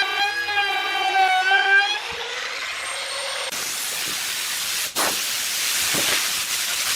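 Power woodworking tool running: a high motor whine fades out about two seconds in. From about halfway a loud, steady hiss of the tool working the wood takes over, briefly dipping twice.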